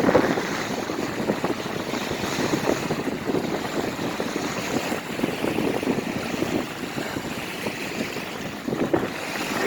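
Strong wind gusting against the microphone over the wash of choppy lake water, a steady rushing noise broken by frequent irregular buffets.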